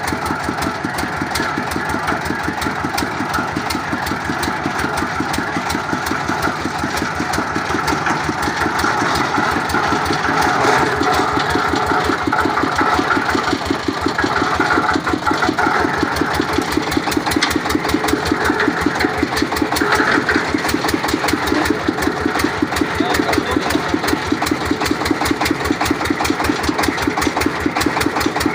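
Engine of a water well boring machine running steadily, with a fast, even beat, during drilling.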